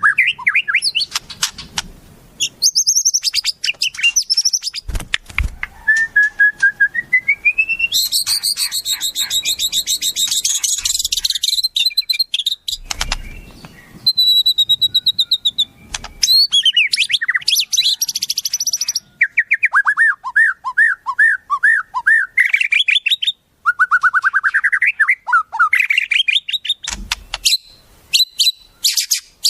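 Wild songbirds singing and calling in quick succession: rapid chattering trills, rising whistled glides, and runs of repeated short falling notes, with a few brief low thuds.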